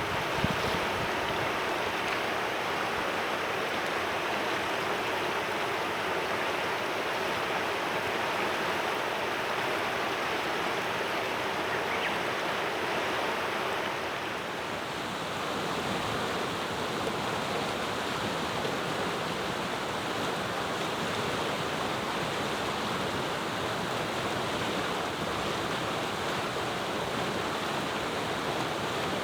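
Clear mountain river rushing steadily over stones, its sound shifting slightly in tone about halfway through.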